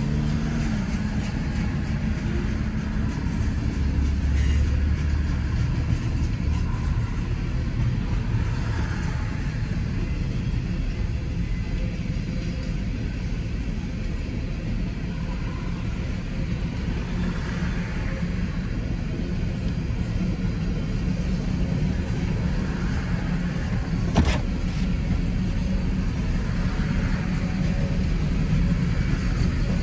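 Freight train cars rolling past a grade crossing, a steady rumble of wheels on rail, heard from inside a stopped car. One sharp knock sounds about 24 seconds in.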